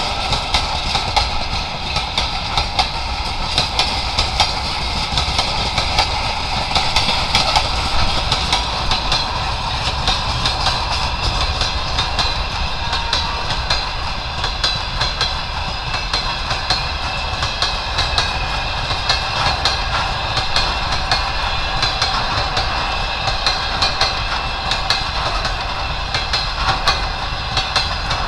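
Freight train wagons rolling past behind a ChME3 shunting locomotive, wheels clattering steadily over the rail joints.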